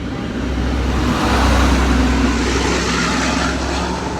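XPT diesel power car engine drone with wheel and rail noise as the train pulls away, swelling to its loudest about two seconds in and then easing slightly.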